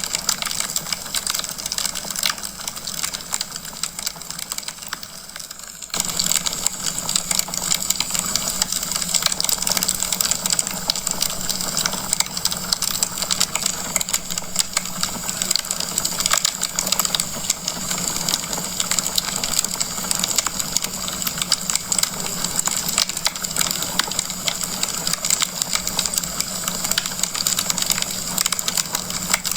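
Wood fire in a fireplace crackling, a dense run of small pops and snaps over a steady hiss, louder from about six seconds in.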